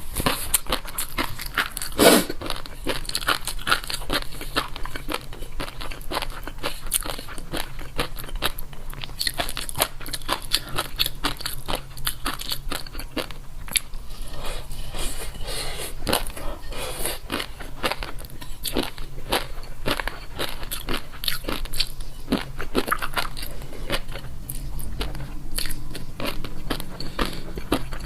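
Close-miked eating: rapid, continuous crunching and chewing of crisp food, with one sharp, louder crunch about two seconds in.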